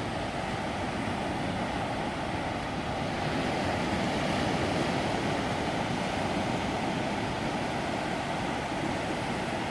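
Ocean surf breaking on a beach: a steady rush of waves that swells a little about halfway through.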